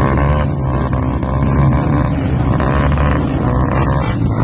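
Off-road trail motorcycle engine revved hard, its pitch rising and falling.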